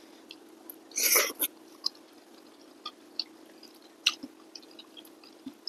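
Close-miked chewing of rice and steamed fish, with wet mouth clicks and smacks. There is one louder crackly burst about a second in.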